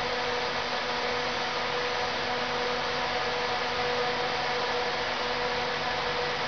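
Passenger multiple-unit train standing with its engine and auxiliary equipment running: a steady mechanical hum with a steady whine.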